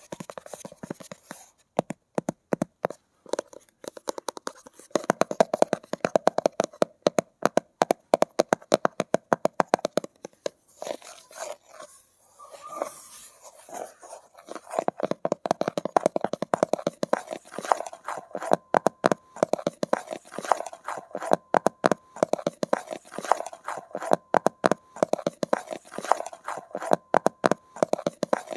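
Rapid, close-up tapping with some scratching on hard objects, many quick taps a second in dense runs, thinning out briefly about halfway through before picking up again.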